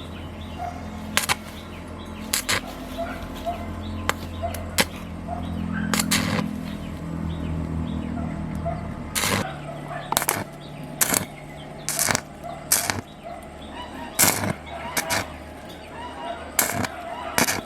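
Sharp knocks at irregular intervals, roughly one a second, over a low machine hum that swells in the middle and drops in pitch about nine seconds in.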